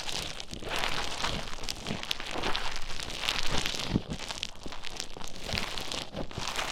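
Play Foam beads being squished and mixed with an ear pick close in the ear, making a continuous crackling, squelching noise that swells and eases about once a second, with occasional sharp clicks.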